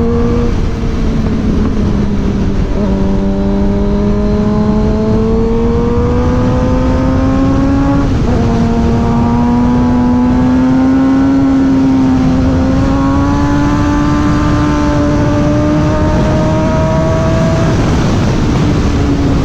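Suzuki GSX-R 600's inline-four engine pulling under way, heard with heavy wind rush: the engine note climbs slowly and drops back sharply at upshifts about three times. Near the end it falls away as the bike eases off.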